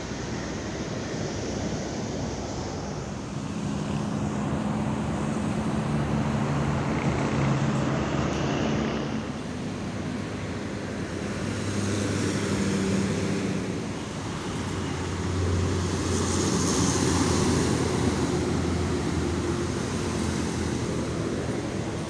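Road traffic with large vehicles such as buses passing one after another, their engine drone swelling as each approaches and fading as it goes by, several times over.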